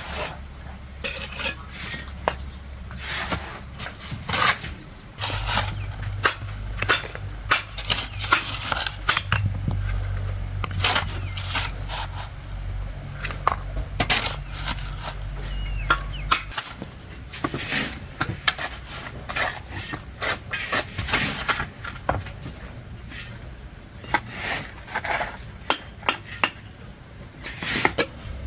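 Hard objects clinking and knocking irregularly, several times a second, with a low steady hum from about five seconds in that stops about two-thirds of the way through.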